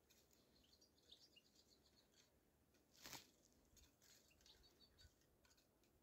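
Near silence, with faint, high, short bird chirps now and then and a brief rustle about three seconds in.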